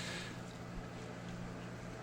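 A faint, steady low hum over light background hiss.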